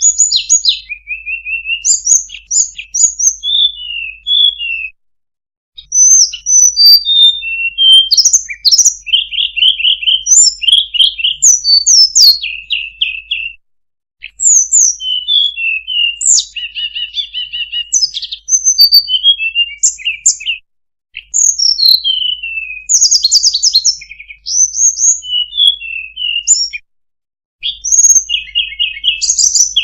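Sulingan (tledekan, hill blue flycatcher) song played as a bird lure: loud, rapid phrases of high whistled notes, quick sweeping slurs and short trills, with brief pauses about every six to seven seconds. A faint low hum runs under the song.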